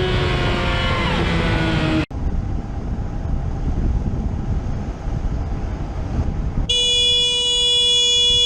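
A vehicle engine running with its pitch falling as it slows, cut off abruptly about two seconds in. Rumbling road and wind noise follows. Near the end a vehicle horn sounds one long, steady blast.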